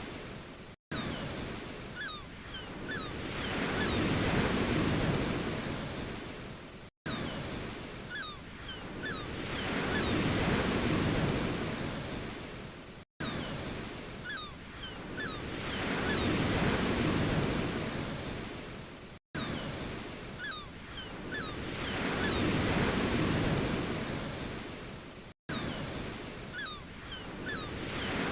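Ocean waves washing in and drawing back, each swell rising and falling over about six seconds, with a few faint high chirps in each cycle. The same short recording repeats about every six seconds, and a brief dropout at each loop point cuts the sound out for an instant.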